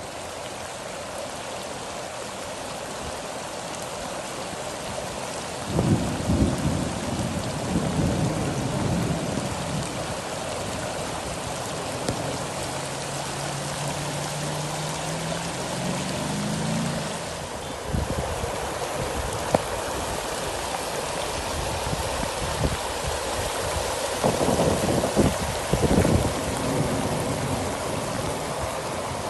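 Steady heavy rain, with low rumbles about six seconds in and again near the end, and a low hum rising in pitch in the middle.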